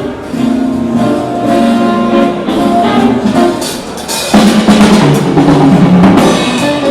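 Music with a drum kit and brass played back over a hi-fi loudspeaker system, swelling louder and fuller a little past the middle.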